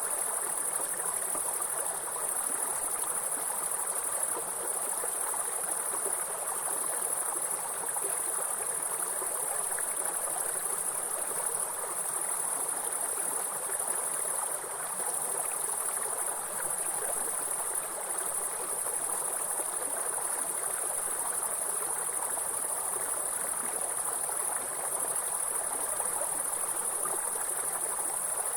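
A steady, unbroken high-pitched trilling of insects, with a stream of water rushing beneath it.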